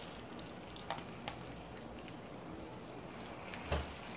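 Sweet plantains frying in a skillet of shallow oil: a faint, steady sizzle with a few sharp pops about a second in and again near the end. The oil is a little less hot than the cook wanted.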